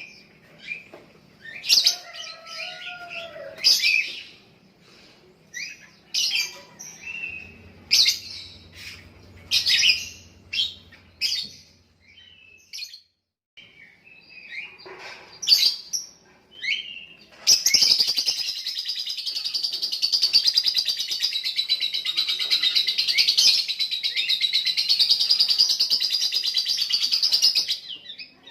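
Lovebird singing: separate sharp chirps and short calls at first, then a bit past halfway through it breaks into one long unbroken rapid chatter lasting about ten seconds, the 'ngekek' song that lovebird keepers prize.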